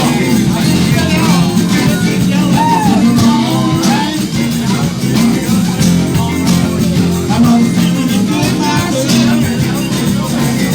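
Live band music at an open jam: a full band playing continuously with a strong bass line, percussion and a melodic lead line that bends in pitch.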